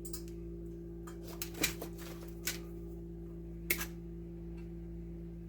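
A few light, scattered clicks and taps of wires and small electrical parts being handled while wiring a controller box, over a steady low hum.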